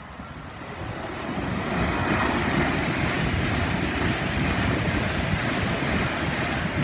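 Virgin Trains Class 390 Pendolino electric train passing at speed: a steady rush of air and wheel-on-rail noise that swells about a second in and holds.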